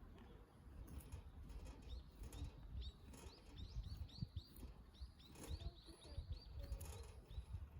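A wild bird singing a rapid run of short, repeated chirps, several a second, starting about two seconds in and stopping shortly before the end, over a low, steady outdoor rumble.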